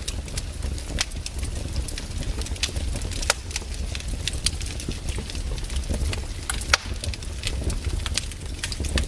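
Campfire burning, with the wood crackling and popping in quick, irregular snaps over a steady low rumble of the flames.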